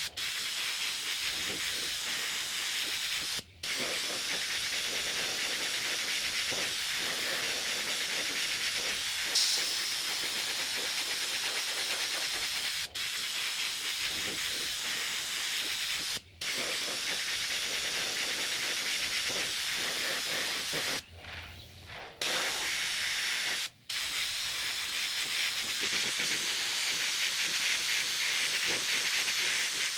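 Paint spray gun spraying a first coat onto a steel wheel rim: a steady hiss of atomising air and paint. The hiss cuts off briefly several times as the trigger is let go, once for about a second a little past two-thirds of the way through.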